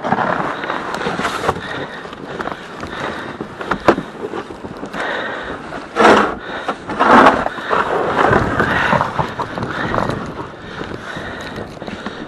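Snow being shovelled: irregular scraping and crunching strokes, with a sharp knock about four seconds in and two louder strokes around six and seven seconds.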